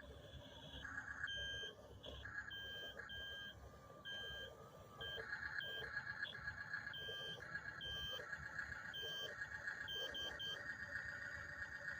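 Electronic beeping from a Double E RC toy track-type tractor (bulldozer): a series of short beeps at uneven spacing, mixed with a buzzy electronic whir, as the toy runs.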